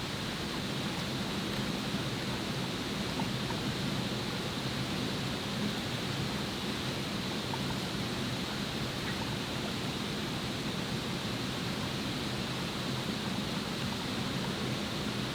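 Steady rushing noise of water, even and unbroken, with a faint high hum held steady throughout.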